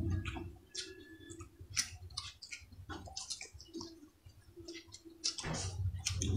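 Close-up mouth sounds of people eating by hand: chewing, with many short wet clicks and lip smacks scattered through. A low hum underneath drops away about a second in and returns near the end.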